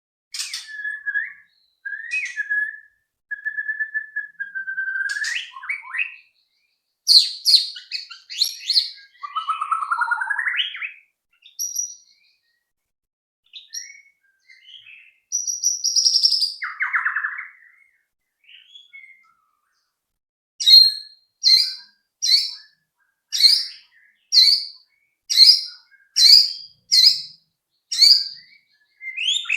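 White-rumped shama (murai batu) singing: varied whistled phrases, some gliding up and down, then from about two-thirds of the way through a regular run of short, sharp repeated notes, a little more than one a second.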